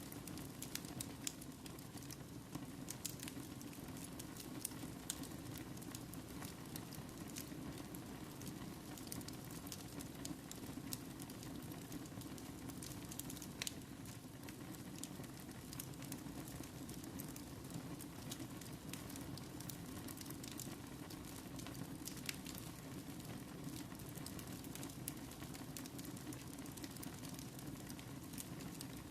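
Wood fire burning in a fireplace: a steady low rush of flames with frequent small sharp crackles and pops scattered throughout.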